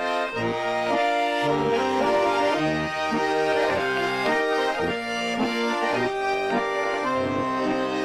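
Accordion playing an instrumental melody over sustained chords, with bass notes changing about every half second.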